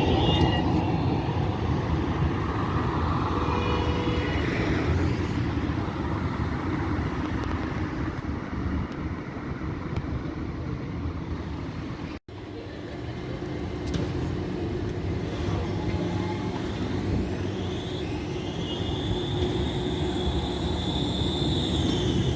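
Trams running in street traffic: a steady rumble of wheels on rails and road noise, with a high whine that rises and then holds steady near the end. The sound drops out briefly about halfway through.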